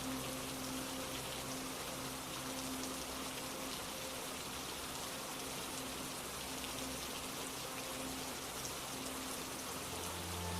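Steady rain falling, a dense, even patter. A faint held music tone sits underneath, and a low soft chord comes in near the end.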